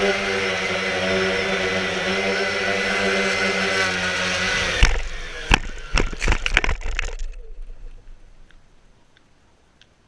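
Quanum Nova quadcopter's electric motors and propellers whining steadily, then about five seconds in several hard knocks and cracks as it crashes, and the motors wind down to a stop. A few faint ticks follow near the end.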